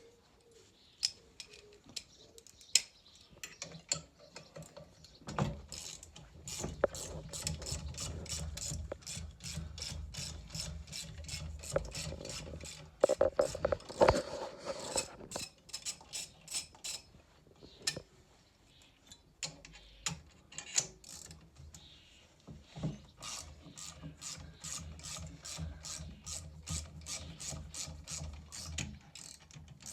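Socket ratchet clicking in long rapid runs as bolts are wound out, with a few sharper knocks of tool on metal between the runs.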